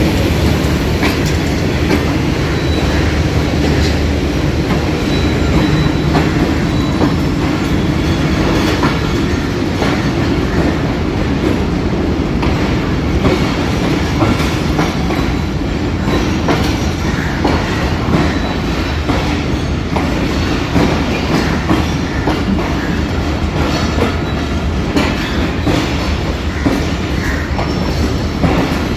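Passenger train's coaches rolling past, wheels clattering steadily over rail joints with a continuous low rumble and some wheel squeal.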